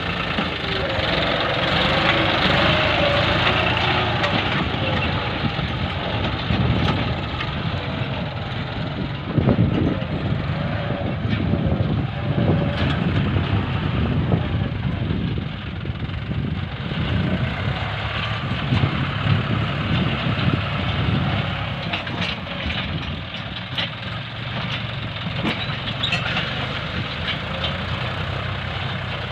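John Deere tractor engine running steadily while plowing, with a few sharp knocks about ten to thirteen seconds in.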